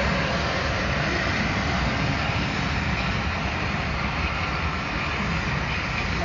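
Class 37 diesel locomotive's English Electric V12 engine running steadily with a low rumble.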